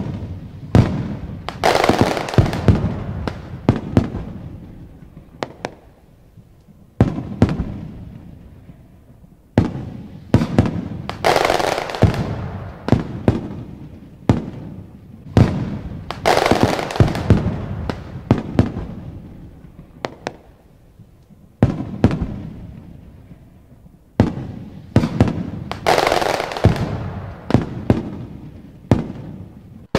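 Aerial fireworks shells bursting: sharp bangs that echo and fade, coming in quick volleys every few seconds with short lulls between.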